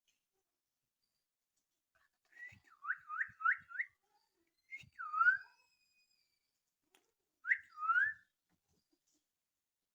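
Baby parakeet giving short whistled calls, each dipping and then rising in pitch: a quick run of four, a single one, then a pair.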